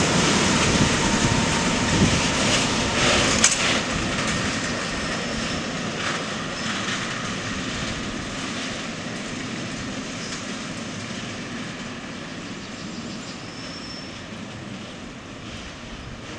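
Freight train of open-top wagons rolling away along the track. The wheel rumble and clatter fade steadily as it goes, with one sharp clack about three and a half seconds in.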